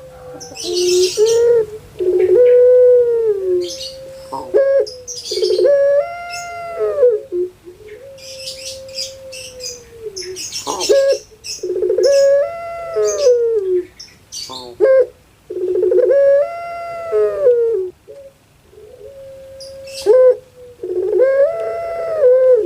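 Puter pelung (domestic collared dove) singing its long coo over and over, each call a drawn-out note that rises and falls, one every two seconds or so. High chirps from small birds come between the calls.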